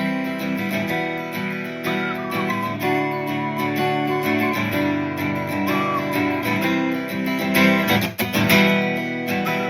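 Acoustic guitar strummed with a pick, an instrumental stretch of chords, with a short break about eight seconds in before the next strum.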